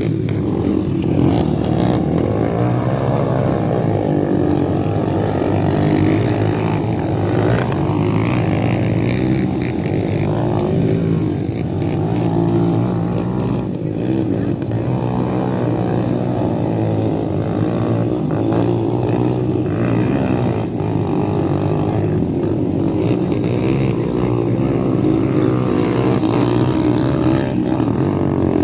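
Motocross dirt bike engine running at a fairly steady speed, its pitch rising and falling a little.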